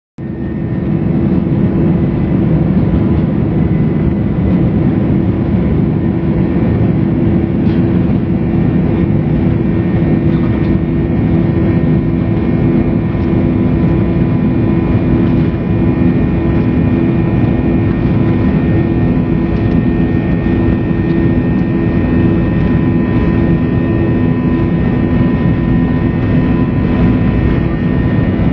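Airliner engines at high power heard inside the passenger cabin during take-off: a loud, steady rush of noise with several steady whining tones.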